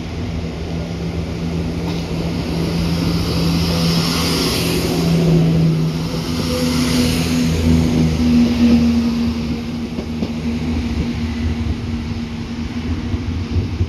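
Diesel freight locomotive passing: a steady low engine note over a rumble, with wheel and rail noise swelling and then fading away; around halfway through the engine note steps up in pitch.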